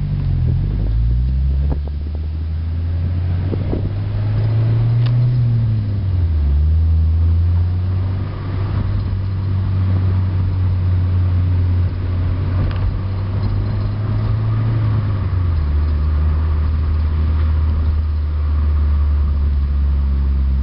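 Exhaust of a 1991 Honda Accord's stock F22A1 2.2-litre four-cylinder engine running, a low, deep-toned and fairly quiet drone. The engine speed rises and falls twice, about a quarter of the way in and again about two-thirds of the way in.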